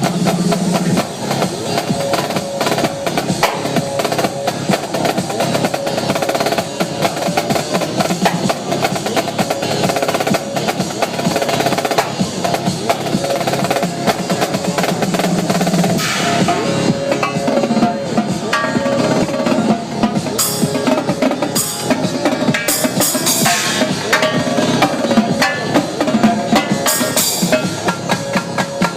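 Live drum-corps-style drumming on a drum kit, with fast snare rolls and bass drum, played over an electronic dance track. In the second half, short bright crashes cut in several times.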